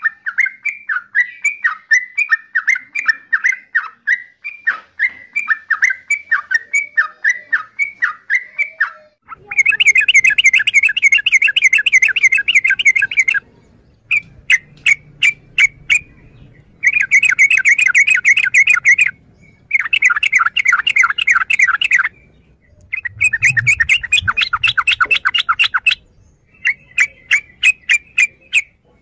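Yellow-vented bulbul chattering: a run of quick, evenly repeated notes at about four to five a second, then several bursts of dense, rapid chatter, each a few seconds long, with short breaks and scattered single notes between them.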